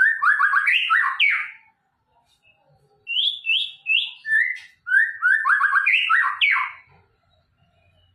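White-rumped shama (murai batu) singing, pouring out its repertoire of learned phrases (isian): three bursts of rapid, sliding whistled notes with short pauses between them.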